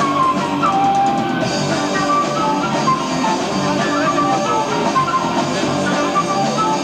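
Live progressive rock band playing an instrumental passage: drum kit, bass and guitar, with a melody line of held notes on top. Amateur tape recording of a concert.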